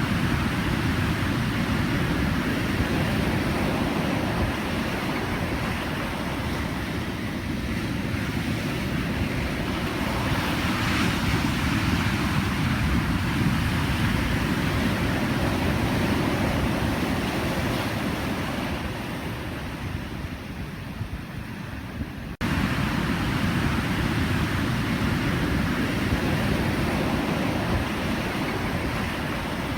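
Ocean surf: a continuous wash of breaking waves that swells and eases over several seconds. There is a sudden jump in level about two-thirds of the way through.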